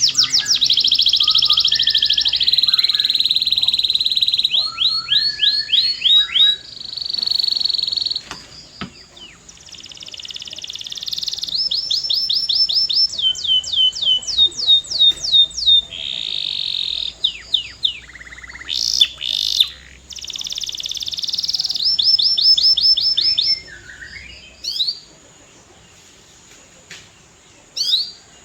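Canary singing: fast trills of repeated sweeping notes alternating with held rolling trills, phrase after phrase with short breaks. Near the end the song stops, leaving a few scattered single notes.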